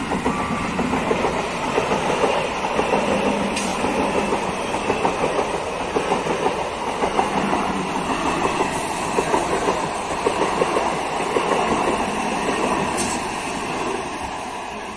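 Old electric multiple-unit (EMU) local train passing close by. Its wheels clatter in a steady rhythmic clickety-clack over the running noise, which fades near the end.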